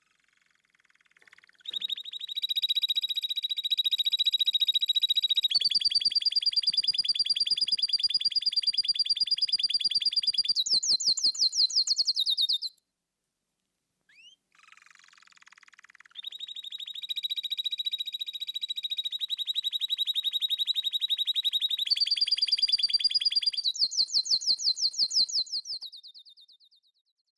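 Canary singing two long songs, each about eleven seconds, with a short pause between them. Each song runs through several very fast trills held at different pitches and ends on a higher trill.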